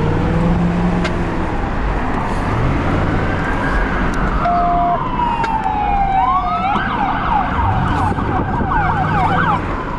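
Police car siren sounding a slow wail that rises and falls, then switching to a fast yelp about six and a half seconds in, which cuts off just before the end. Vehicle engine and road noise run underneath.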